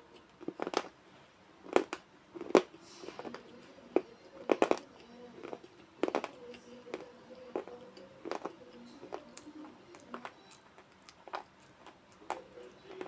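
Slate pencil being chewed: sharp, irregular crunches, frequent and louder over the first six seconds or so, then sparser and fainter clicks as the pieces break down.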